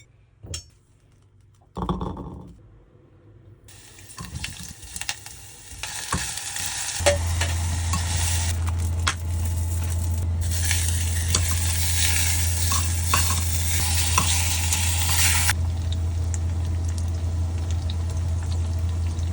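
Pork belly sizzling and frying in a ttukbaegi earthenware pot. The sizzle builds up over the first few seconds, then runs steadily, easing a little near the end. A click and a thump come near the start, and a steady low hum runs underneath.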